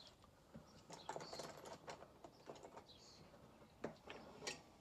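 Near silence with faint, scattered clicks and taps of hand tools and metal parts being handled, two sharper clicks near the end.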